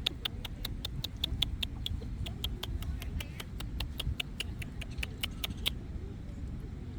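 Birds giving a fast, even run of sharp chirping calls, about six a second, that stops near the end, over a low steady rumble.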